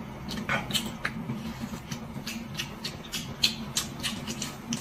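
Close-miked chewing and lip-smacking of a person eating noodles: a quick run of short wet mouth clicks, over a low steady hum.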